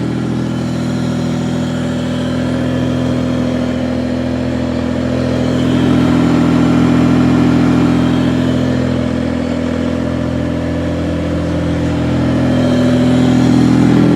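Toyota 3MZ-FE 3.3-litre V6 with a TRD supercharger, newly swapped into a 1995 Celica, idling steadily on its first start-up. It gets slightly louder twice, in the middle and near the end.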